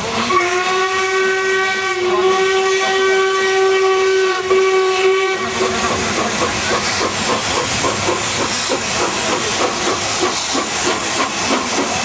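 Steam locomotive whistle blowing one long, steady note for about five seconds. It then gives way to loud hissing steam with a fast pulsing.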